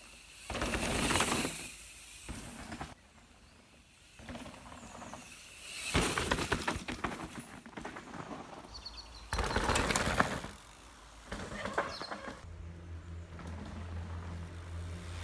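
Mountain bike riding a dirt jump trail, heard from a camera on the bike or rider: three swells of tyre roar and wind rush as it drops into runs and jumps, with clicks and rattles from the bike between them. A low steady hum comes in near the end.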